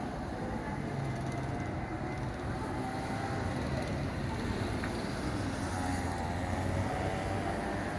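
Go-kart engine running steadily, its pitch wavering slightly up and down.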